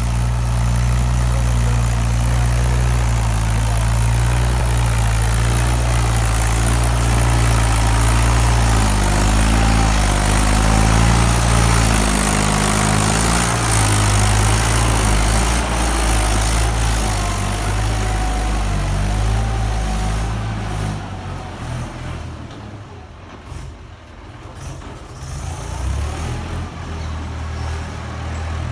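Mahindra tractor's diesel engine running under heavy load, a deep steady drone whose pitch shifts a little. It falls away in loudness about three-quarters of the way through, then picks up again.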